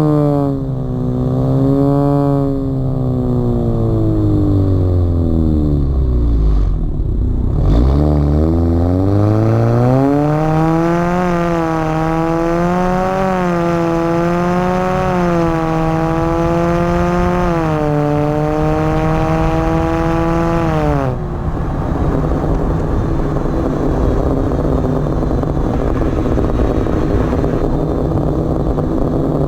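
Exhaust of a Honda Accord 1.5-litre turbocharged four-cylinder with a catless downpipe and quad 4-inch tips. The engine note sinks over the first several seconds, then climbs and holds near one pitch with small wavers for about ten seconds. About two-thirds of the way in it drops abruptly and settles into a steady drone.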